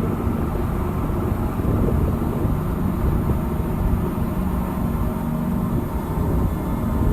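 Steady low rumbling drone with a few faint held low tones underneath, unchanging throughout.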